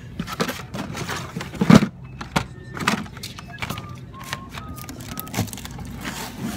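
Irregular clicking and clacking of blister-packed toy cars being handled and shuffled through in a bin, with one louder knock about two seconds in. A few faint short beeps sound around the middle.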